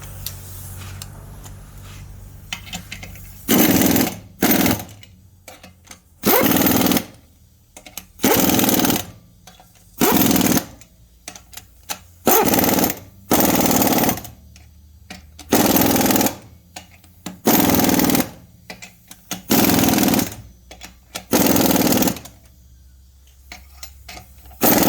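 Impact wrench hammering in about a dozen short bursts, each under a second, coming every second and a half to two seconds.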